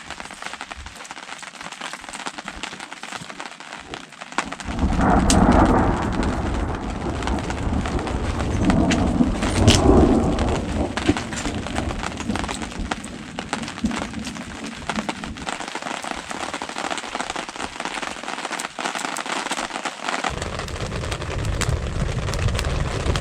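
Thunderstorm: steady rain falling, with thunder rumbling in about four and a half seconds in, loudest twice, then the low rumble dying away near the end.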